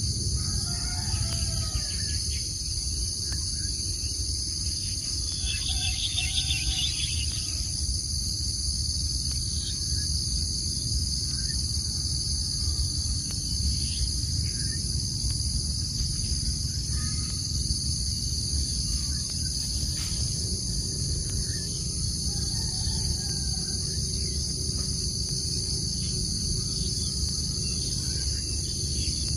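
Steady high-pitched chorus of insects such as crickets or cicadas, with a few faint, short bird chirps now and then over a low background rumble.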